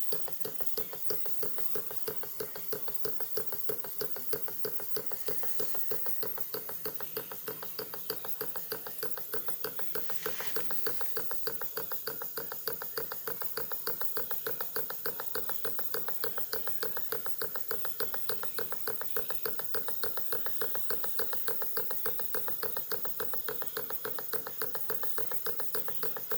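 Half-scale Cretors popcorn engine, a small single-cylinder steam engine model, running steadily at low pressure with an even beat of a few strokes a second. It has a slight knock whose cause the owner has not yet found.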